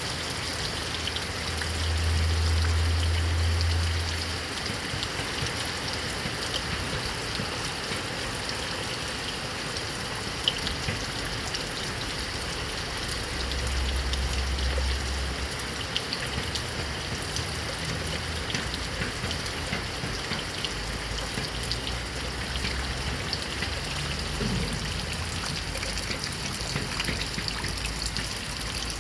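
Heavy rain falling steadily, an even hiss of many drops. A low rumble swells up twice, about two seconds in and again near the middle.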